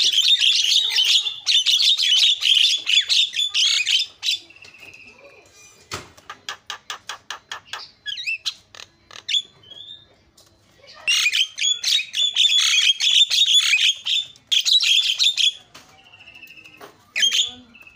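Javan myna singing in full song: long bursts of dense, harsh, high chattering broken by a held whistle, a fast run of about six clicks a second and a few short gliding whistles, with a brief pause near the middle before the chattering starts again.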